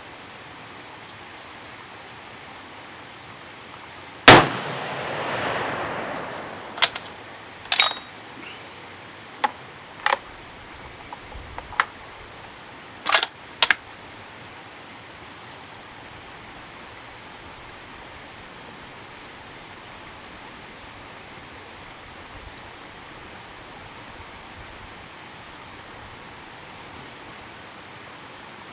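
A single 6.5 Creedmoor rifle shot about four seconds in, its echo rolling away over the next two seconds. Then a run of short, sharp metallic clicks over the next several seconds as the rifle's bolt is worked, followed by steady faint background hiss.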